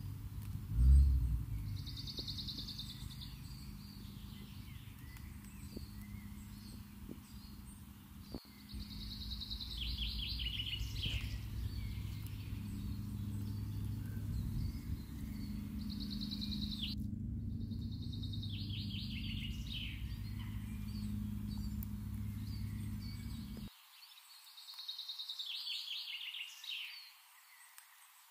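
A songbird singing the same short phrase about five times, each a falling trill about a second and a half long, with pauses of several seconds between. Under it runs a low rumble that cuts off near the end, and there is a loud thump about a second in.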